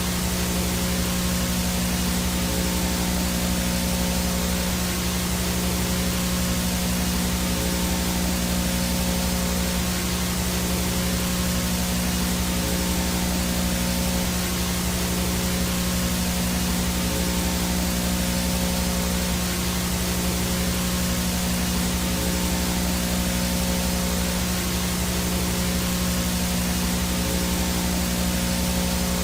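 Steady hiss of VHS static noise from a signal-less analog video feed, with a low electrical buzz under it.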